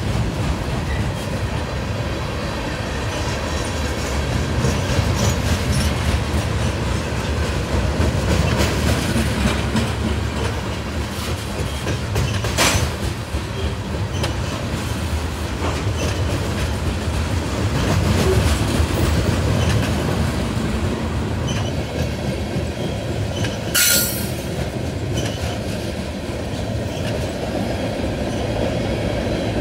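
Freight train of tank cars and covered hopper cars rolling past at steady speed over a short bridge: a continuous low rumble with wheels clicking over rail joints. A brief sharp, high-pitched noise cuts through near the end.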